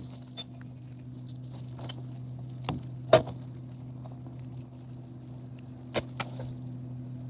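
Garbage truck running at idle with a steady low hum, and sharp knocks of trash or cans hitting metal: a pair a little under 3 s in, the second the loudest, and two more close together near 6 s.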